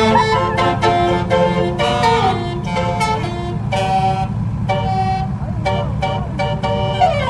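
A multi-tone musical vehicle horn playing a quick run of notes, over a steady engine rumble; one note glides down near the end.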